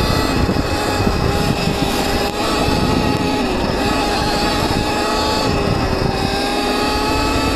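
Viper S electric dirt bike riding through mud, its electric motor giving a steady whine that drifts slightly up and down in pitch with speed, over a continuous low rumble.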